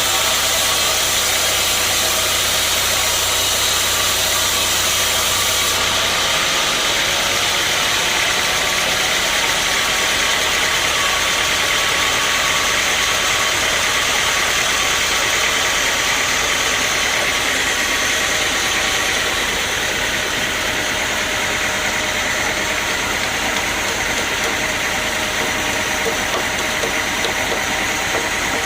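Sawmill machinery running steadily with a loud, dense mechanical noise. Its sound changes about six seconds in, losing a low hum and some of its highest hiss.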